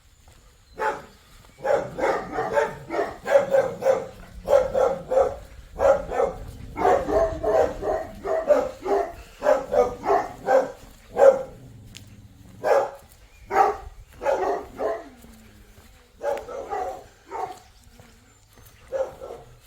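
Dog barking loudly and repeatedly in quick runs of barks, with a few short pauses.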